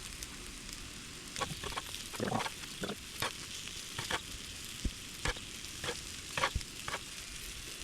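Food sizzling on a Blackstone flat-top griddle, with a dozen or so sharp clicks and scrapes of a utensil working the food on the griddle top.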